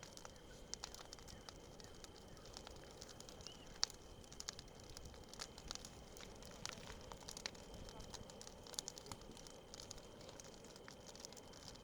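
Wood bonfire crackling, with irregular sharp pops and one louder pop about four seconds in.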